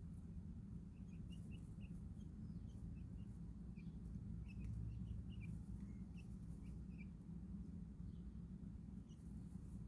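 Baby chicks peeping: many short, high chirps, thickest in the first seven seconds and sparser after, over a steady low background rumble.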